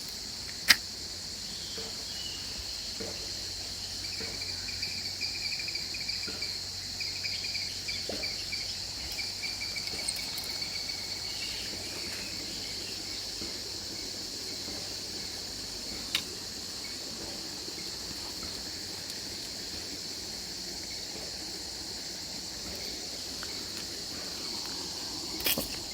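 Steady high-pitched insect drone, with a thinner trill coming and going in the first half. A sharp click about a second in and a fainter one about two-thirds of the way through.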